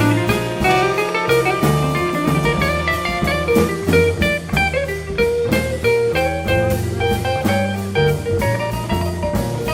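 Small jazz band playing a medium-tempo blues live, with pitched melody lines over a stepping bass line and drum kit.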